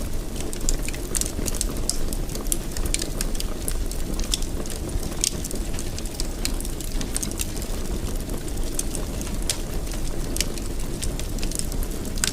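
Wood fire burning in a fireplace, with a steady low rumble and frequent sharp crackles and pops at irregular intervals.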